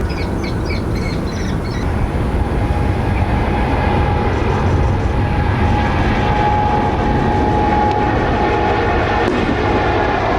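Jet airliner engines running: a loud, steady rush of engine noise, with a steady-pitched whine coming in about two seconds in.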